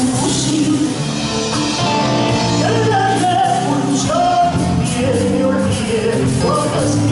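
A folk song: a voice sings a melody over instrumental accompaniment.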